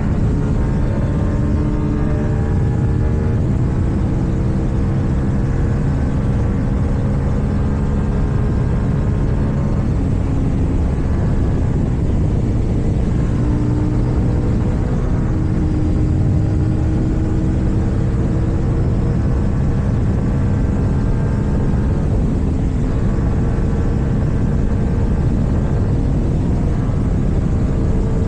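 KTM Duke 790's parallel-twin engine, fitted with an Akrapovic exhaust, running under way. Its pitch rises and falls a few times with the throttle and gear changes, over a steady low wind rush.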